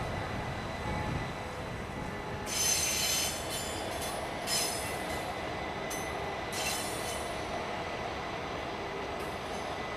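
A train rolling on steel rails with wheel flange squeal: high screeching bursts over a steady rumble. The longest and loudest burst comes about two and a half seconds in, with shorter ones around four and a half and six and a half seconds.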